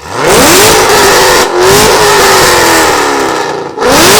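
Modified 2011 Cadillac CTS-V supercharged V8, with headers, exhaust, pulley and tune, revved hard through its exhaust three times. The first rev snaps up and is held, it dips briefly and is held high again, then falls off and climbs once more near the end.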